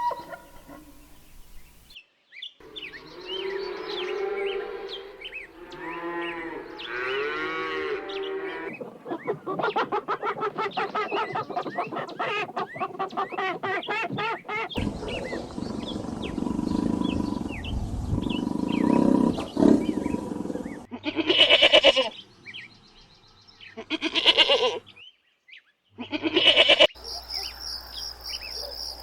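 A run of different animal calls edited back to back, each lasting a few seconds and cut off abruptly, with some low mooing or roaring among them. Near the end comes a steady, high, rhythmic cricket chirping.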